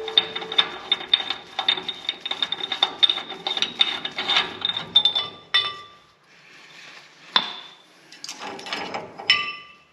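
Socket ratchet clicking rapidly as it backs off the spindle nut on a Dana 44 front hub, stopping about halfway through. Then a few separate metal clinks, two of them ringing briefly, as the steel hub parts are handled.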